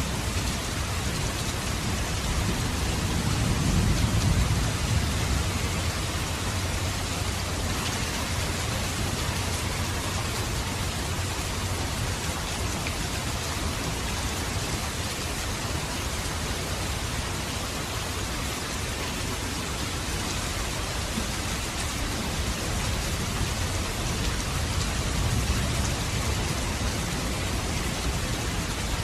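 Steady rain falling on surfaces, an even hiss with a low rumble that swells about four seconds in and again briefly near the end.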